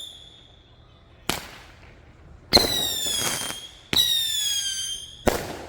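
200-gram First in Show consumer firework cake firing its shots. A whistle fades out at the start, a sharp pop comes about a second in, then two shots follow, each with a whistle that slides slightly down in pitch for over a second, and another pop comes near the end.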